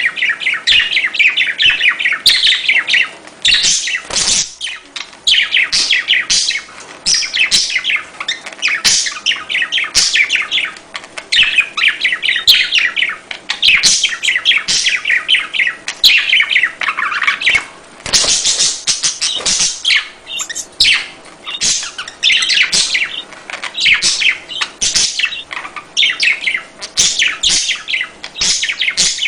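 Budgerigars chattering and warbling in rapid, continuous chirps and trills.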